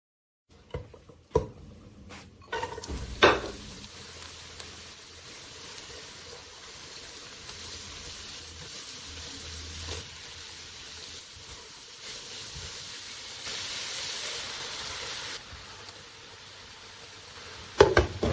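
Diced vegetables and tomato paste sizzling as they fry in a pot and are stirred with a spatula. A few sharp clanks of a utensil on the pot come near the start, and a loud cluster comes near the end.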